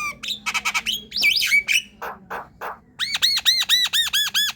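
Javan myna singing a varied chattering song of harsh, raspy notes and whistled slides. About three seconds in comes a fast run of about ten looping whistled notes, some seven a second.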